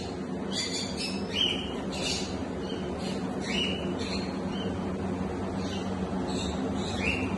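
African grey parrots making short chirps and squawks, some sweeping quickly up or down in pitch, a few each second, over a steady low hum.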